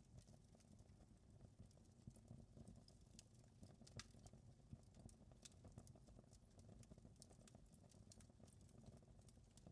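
Faint crackling of a wood fire in a fireplace: irregular small pops and snaps over a steady low rumble, with one sharper pop about four seconds in.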